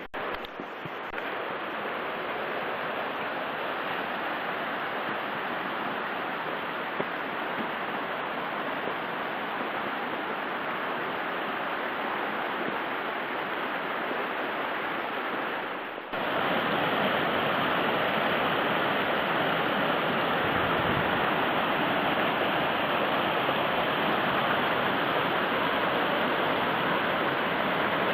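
Steady, even rushing noise that grows louder after an abrupt cut about sixteen seconds in.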